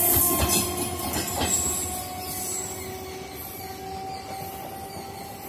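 BEML-built electric multiple-unit local train running away into the distance. A few clunks of its wheels over rail joints come in the first second and a half, then the train fades steadily, leaving a faint steady whine.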